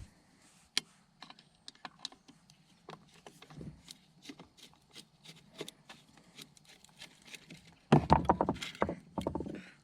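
Light, scattered clicks and taps of small metal parts and tools as a carburetor is taken apart, with a louder flurry of clicks and rattling near the end.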